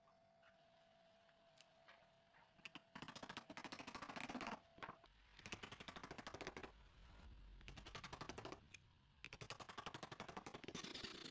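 Faint bursts of rapid clicking, three runs of about a second or so each, starting about three seconds in, with a faint steady hum beneath the first half.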